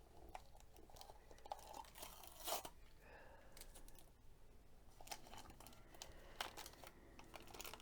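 Faint handling sounds of paper and tape crinkling, with scattered small clicks and a louder rustle about two and a half seconds in.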